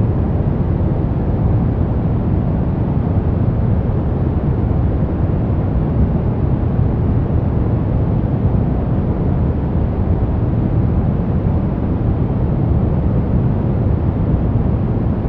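Steady, unchanging noise sold as white noise for sleep, but weighted heavily toward the low end: a deep, even rush with little hiss, closer to brown noise.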